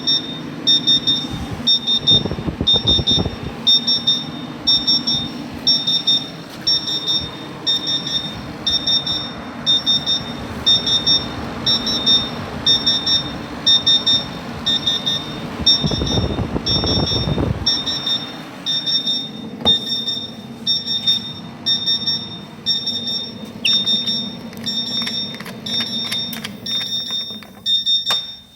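S&A 5200 water chiller's alarm buzzer beeping steadily, about two beeps a second, over a low hum: the constant alarm of a chiller with no water flowing through it. Louder rustling noise twice.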